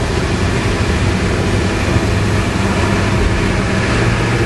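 Semi truck's diesel engine droning steadily at highway speed, with tyre and road noise, heard inside the cab.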